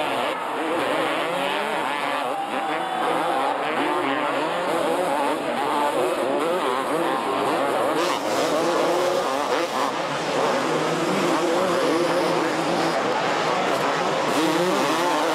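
Kawasaki two-stroke motocross bike engines racing, revving up and down in quick rises and falls as the riders take the jumps and corners.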